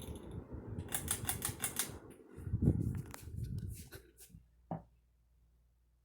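A quick run of sharp clicks over low rubbing and thumping handling noise, which stops about four seconds in, followed by a single click.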